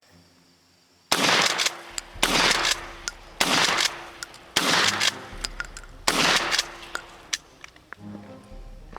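Gunfire: five loud shots or short bursts about a second apart, each with a brief rough tail, with small sharp clicks in between.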